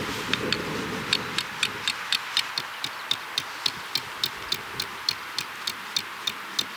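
A rapid, even series of sharp clicks, about four a second, starting about a second in and running on to the end.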